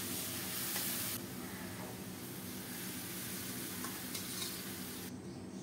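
Mixed vegetables sizzling in a hot aluminium kadai while a metal spatula stirs them, a steady hiss with a few faint scrapes. The hiss drops sharply about a second in and fades further near the end.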